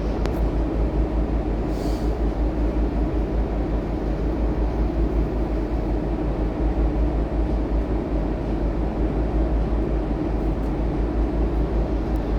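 Scania K230UB Euro V single-deck bus driving along: a steady drone and low rumble from its diesel engine and running gear.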